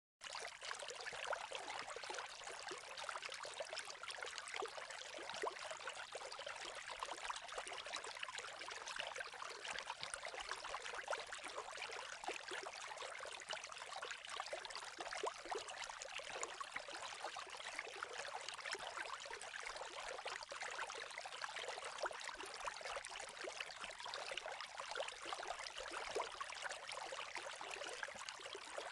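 Running water, a steady even trickling and splashing that starts abruptly and carries on unchanged, with little low rumble.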